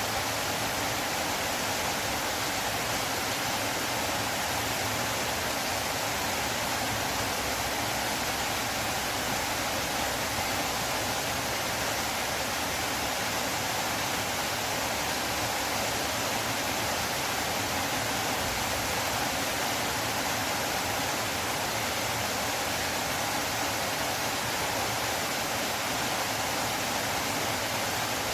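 River water flowing with a steady, even rushing hiss that does not change.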